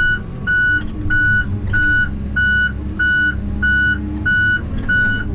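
Skidder's reversing alarm beeping steadily, about one and a half beeps a second, over the machine's diesel engine running. The beeping stops shortly before the end.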